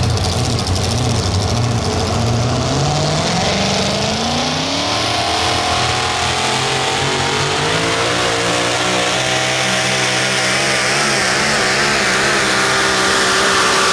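Super modified four-wheel-drive pulling truck's engine revving up over a few seconds, then running loud at high revs with its pitch wavering under load.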